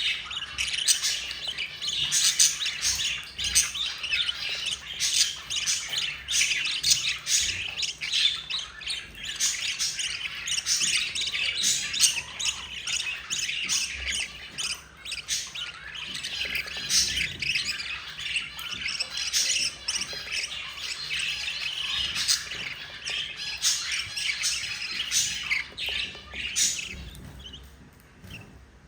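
Budgerigar chicks making rapid, raspy begging squawks and chirps while the mother budgie feeds them, dying away near the end.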